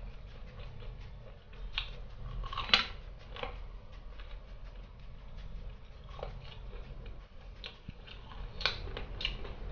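Chewing and biting crispy-coated KFC fried chicken up close: scattered crunches and wet mouth clicks, the loudest crunch about three seconds in and another few near the end.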